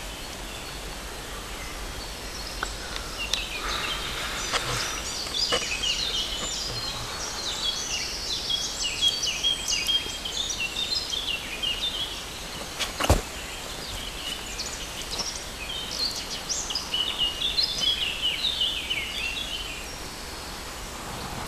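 Wild birds singing and chirping, short repeated chirps and trills throughout, over a steady outdoor hiss, with one sharp click about thirteen seconds in.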